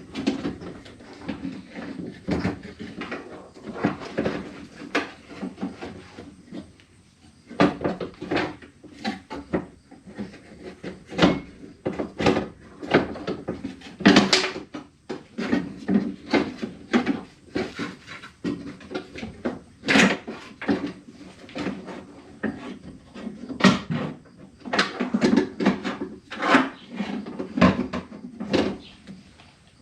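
Irregular clunks, knocks and rattles of a loose power window regulator assembly being shifted around inside a pickup's steel door shell, metal parts striking the door's inner panel.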